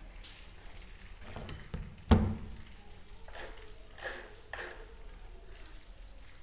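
Metal parts and tools being handled on a bicycle wheel: some scraping, a loud metallic knock about two seconds in, then three short, ringing metal clinks.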